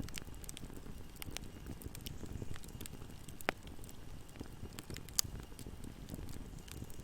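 Wood fire burning in a fireplace: a steady low rumble of flames with scattered small crackles, and two sharper pops about halfway through and a couple of seconds later.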